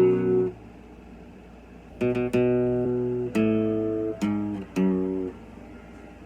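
Acoustic guitar: a chord ringing out, then a short pause and four strummed chords, each left to ring, with a pause again near the end.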